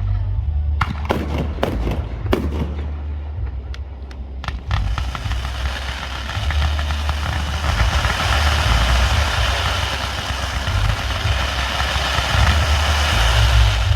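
Fireworks going off: several sharp bangs in the first few seconds, then a dense crackling that builds and lasts until just before the end, over a constant low rumble.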